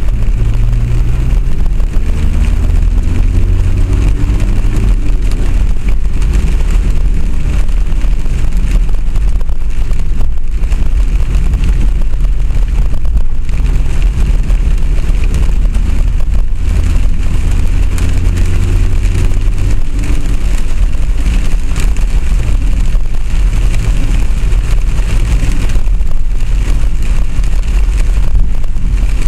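Loud low rumble of a moving vehicle, heard from on board, with a motor's pitch gliding twice as it changes speed.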